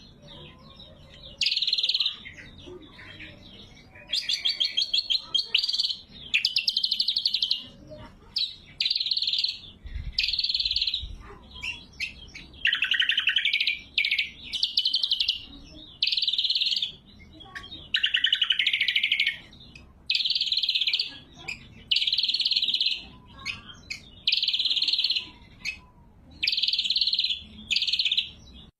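Cucak kombo singing loud, clear phrases about a second long, repeated roughly every two seconds. Some phrases are rapid trills and others slur down in pitch.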